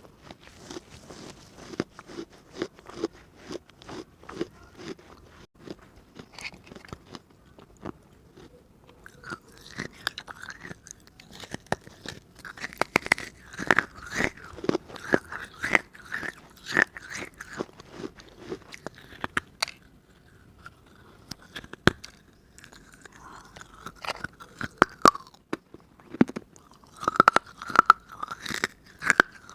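Close-up crunching and chewing of a hard baked-clay diya (small earthen lamp): rapid runs of sharp, crackling bites and grinding chews, thickest through the middle and again near the end.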